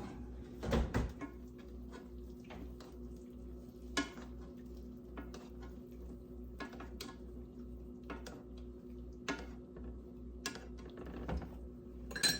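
Scattered light clicks and knocks of kitchen dishes and utensils over a steady low hum, with a ringing metal or glass clink near the end.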